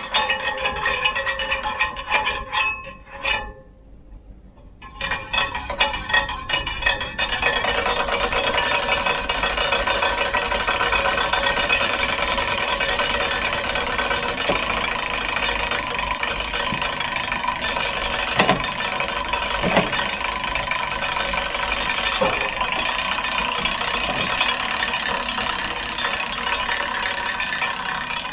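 Giant Momentum Latte bicycle making its odd mechanical sound: irregular clicks and knocks at first, briefly dropping away, then a steady, dense rattling whir from about a quarter of the way in.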